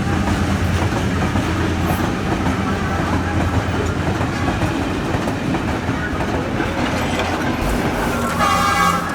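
Train running along the track: a steady rumble with wheel clatter on the rails.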